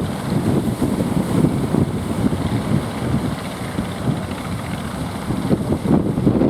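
Strong wind buffeting the microphone, a steady fluttering low rumble.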